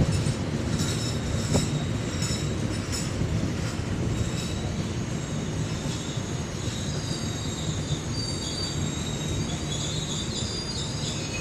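Passenger coaches of the KA Jayakarta train rolling along the track with a steady low rumble, the wheels clicking over rail joints for the first few seconds. From about six seconds in, a high-pitched wheel squeal sets in and holds.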